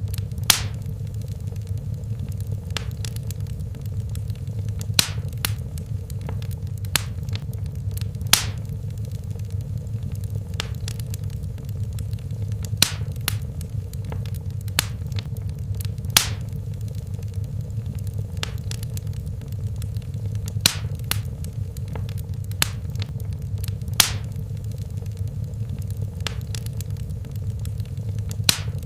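Wood fire in a fireplace crackling: sharp single pops at irregular intervals, a few seconds apart, over a steady low rumble of the flames.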